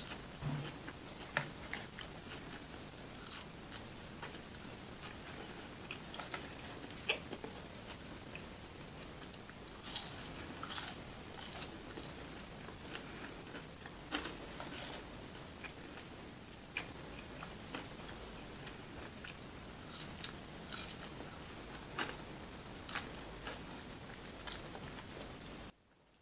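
Close-miked eating: a person biting and chewing food, with many short wet clicks and crunches over a steady hiss. The sound cuts off abruptly just before the end.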